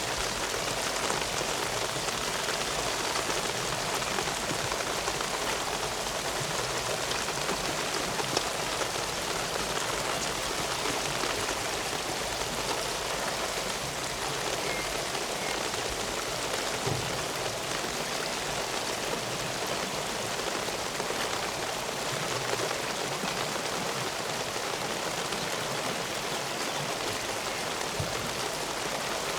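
Steady rain falling, a constant hiss with many small drop hits scattered through it.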